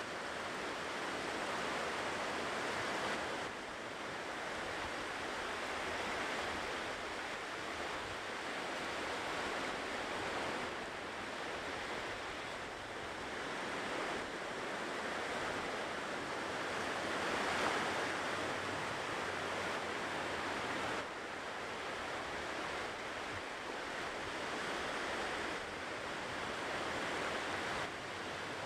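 Ocean surf on a shore: waves breaking and washing in a steady rushing noise that swells and eases every few seconds.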